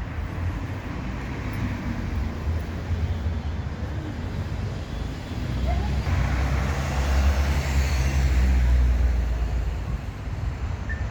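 Street traffic: a low engine rumble throughout, with a motor vehicle passing close by, its engine and tyre noise swelling about halfway through and fading near the end.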